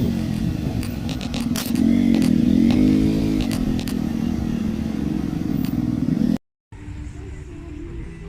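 Motorbike engine running while riding, its pitch rising and falling with the throttle, over road noise and a few rattles. About six seconds in it cuts off abruptly and gives way to a much quieter steady background.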